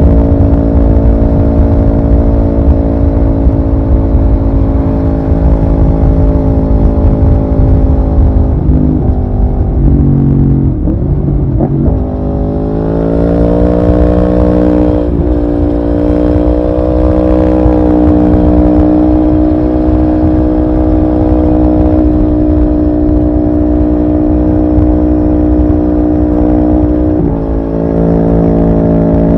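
Aprilia Tuono V4R's V4 engine under way, running at steady revs. About nine seconds in the revs fall away as the bike slows, then climb again with a gear change partway up. It then holds a steady cruise, with another brief shift near the end.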